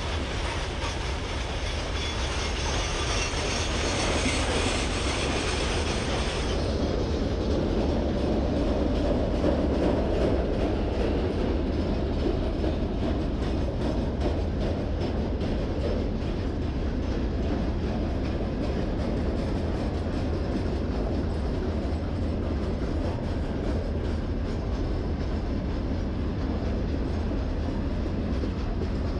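Freight train's wagons rolling past, a steady rumble of wheels on rail with a running clickety-clack over the rail joints. About six seconds in, the higher hiss drops away and the sound turns duller.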